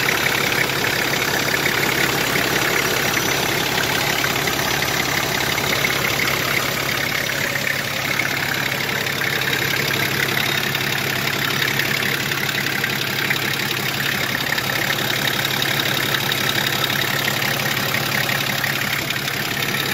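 Nissan TD42 4.2-litre straight-six diesel engine idling steadily.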